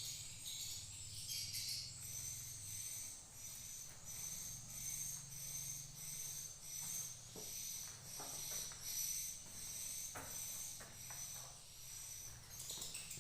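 Edible-nest swiftlets chirping inside a nesting house: high, thin calls repeating evenly about every three-quarters of a second, over a faint low hum.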